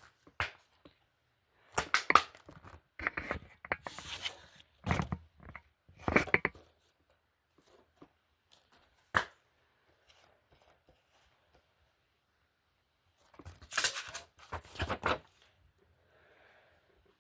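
DVD and Blu-ray cases being handled: clusters of plastic clacks, knocks and rustling, with a single sharp click partway through.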